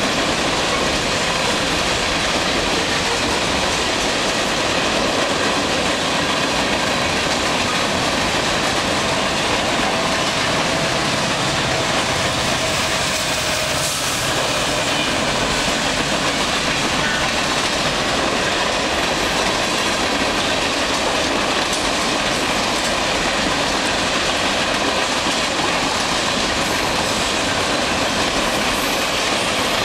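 Freight cars of a long CP train, boxcars and covered hoppers, rolling steadily past with a loud, unbroken rumble and clatter of steel wheels on the rails.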